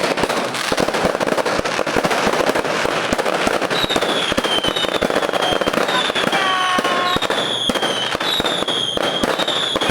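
Fireworks crackling and popping densely without a break, with a string of short falling whistles starting about four seconds in.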